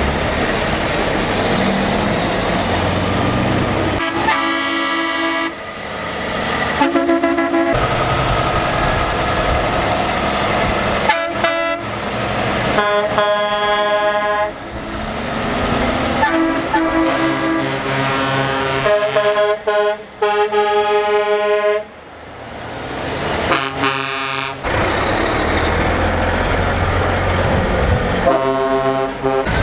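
Trucks' air horns blowing in a string of separate blasts, about eight in all, some short and some held for a few seconds, several of them sounding as chords of more than one note. Between the blasts there is the steady running of heavy diesel truck engines rolling past.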